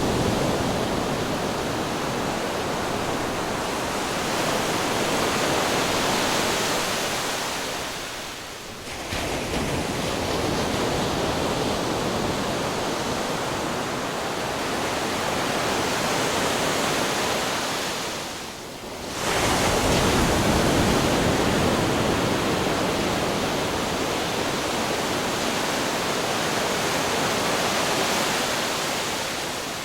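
Ocean waves crashing on rocks: a continuous roar of surf, broken by two short lulls about ten seconds apart, each followed by a fresh wave breaking, the second the loudest.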